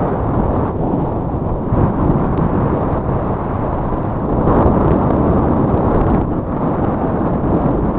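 Wind buffeting the microphone: a loud, uneven low rumble that swells and dips without a break.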